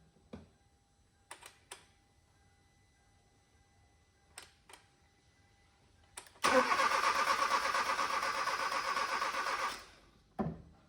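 2012 Hyundai Veloster's 1.6 turbo G4FJ engine cranking on the starter for about three seconds without firing. The fuel pump relay and fuse are removed so the rebuilt engine builds oil pressure first. A few faint clicks come before the cranking.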